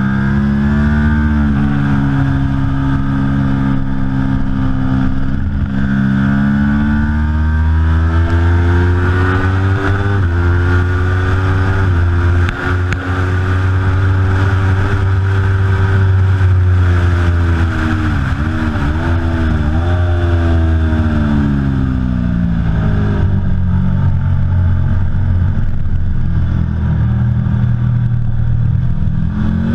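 Aprilia Tuono V4 Factory's V4 engine being ridden hard, its pitch climbing and holding through long pulls. About two-thirds of the way through it falls, with a quick run of dips and blips as the rider downshifts, then it climbs again under acceleration near the end.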